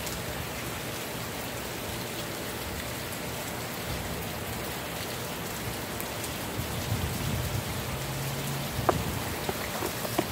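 Heavy hurricane rain falling steadily, an even hiss of rain on surfaces, with a few sharp ticks near the end.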